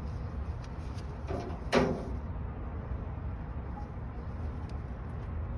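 A spin-on oil filter being turned the last bit tight by hand, giving one short creaking squeak about a second and a half in, over a steady low hum.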